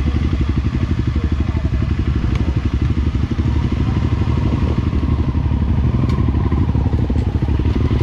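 Enduro dirt bike engine running steadily with a fast, even pulsing beat, a few light clicks and knocks over it.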